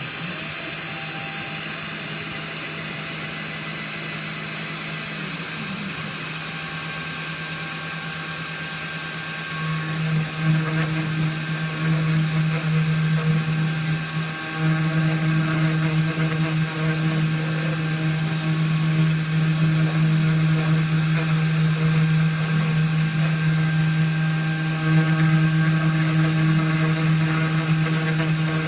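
CNC 1610 desktop milling machine running a G-code job: a steady motor hum with small rises and dips in pitch as the axes move, growing louder about ten seconds in.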